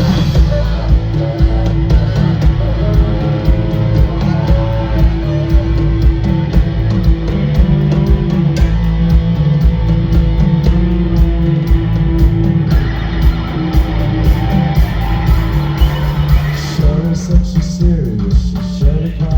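Live rock band playing a song loud, with electric guitar over heavy, booming bass and drums.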